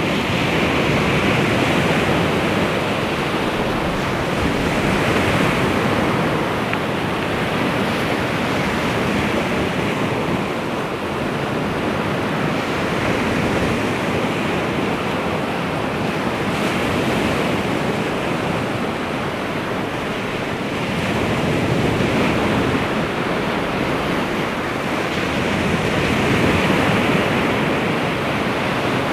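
Baltic Sea waves washing onto the shore: a continuous surf wash that swells and eases every few seconds.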